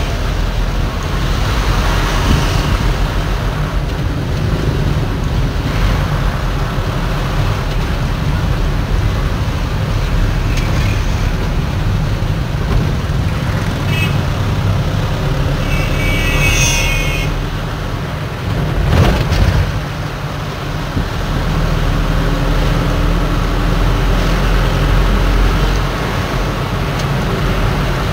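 Convoy of heavy trucks driving past, engines running steadily with road noise. Partway through there is a brief high-pitched tonal sound, and a little later a short, loud burst of noise.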